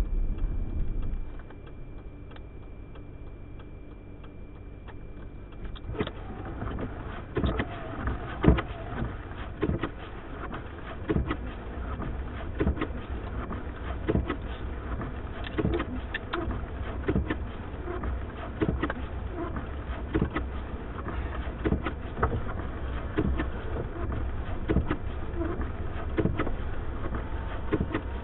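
Blizzard wind gusting against a car, buffeting with irregular thumps and ticks from about six seconds in; before that, a quieter stretch with a faint steady high tone.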